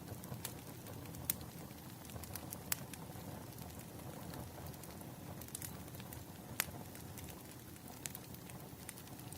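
Wood fire crackling: a steady low rumble of burning logs with irregular sharp pops and snaps scattered through it.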